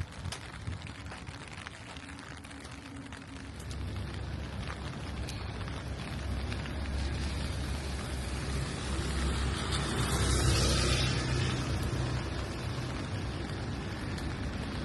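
Rain falling on a street, with drops ticking early on, then a vehicle approaching and passing on the wet road: a low rumble builds and the tyre hiss peaks about two-thirds of the way in before fading.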